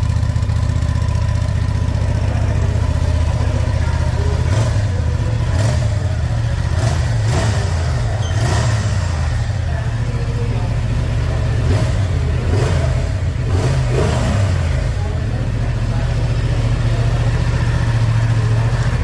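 Honda Transalp 750's parallel-twin engine heard at the exhaust, idling steadily, with a run of short throttle blips in the middle stretch before it settles back to idle.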